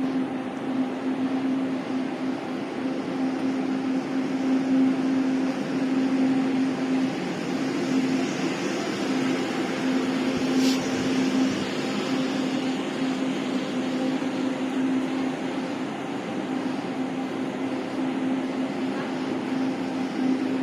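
Steady mechanical hum of a passenger train standing at a station, a constant low tone with fainter overtones; a single short click about halfway through.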